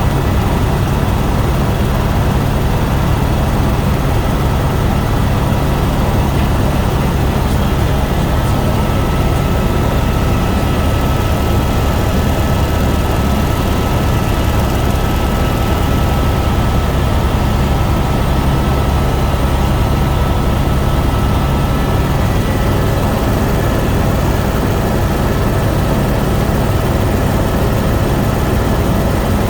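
Helicopter in flight, its engine and rotor making a steady low drone with a faint high whine on top.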